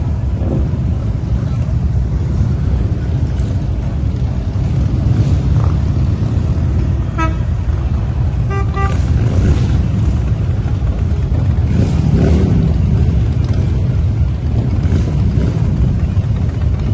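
Steady engine and road rumble of a moving motor vehicle, with short horn toots about seven and nine seconds in.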